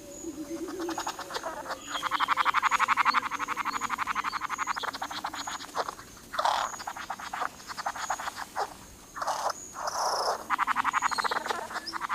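Rapid pulsing, rattling animal calls in a string of bursts, loudest about two to three seconds in, with a faint high note repeating above them.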